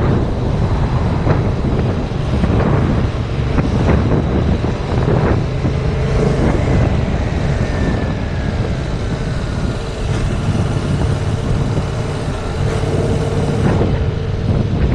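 Heavy wind buffeting on a GoPro microphone on a moving motorcycle. Under it is the faint note of the 2019 Yamaha MT-07's parallel-twin engine, with a steadier tone coming in about halfway through.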